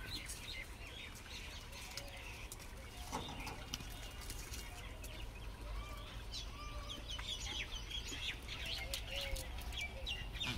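Birds chirping and calling over and over: a busy mix of short high chirps, with a few lower curved calls and occasional faint clicks over a steady low rumble.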